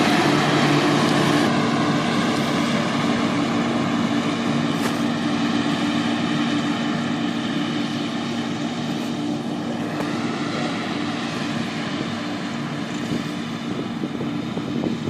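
BM Tractors Better 180 tractor running with its 660 front mower-conditioner, a steady engine note over a broad mechanical rush, getting gradually quieter.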